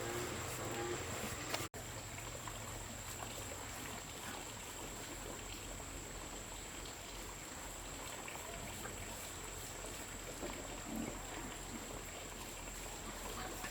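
Steady rushing noise, cut off abruptly for an instant about two seconds in.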